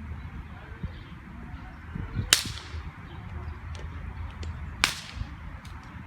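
Two sharp cracks about two and a half seconds apart, over a steady low rumble.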